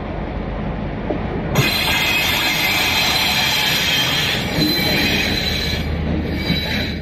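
Taiwan Railways freight train with diesel locomotive R158 passing close by at low speed, its running gear giving a steady rumble. About a second and a half in, a loud high-pitched squeal of steel wheels on the rails sets in and carries on until near the end, with a few knocks from the wheels over rail joints.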